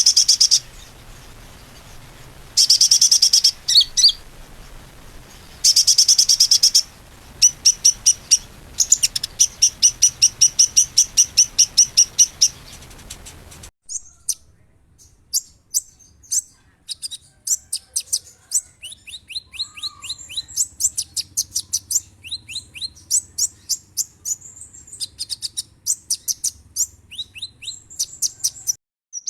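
Small songbirds singing in fast, high, dense chirping trills, edited together from separate recordings. About fourteen seconds in, an abrupt cut switches to a cleaner recording of rapid runs of high notes that slide downward.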